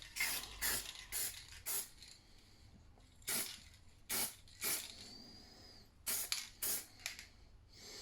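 Aerosol can of primer sprayed in short bursts: about ten brief hisses with short pauses between them.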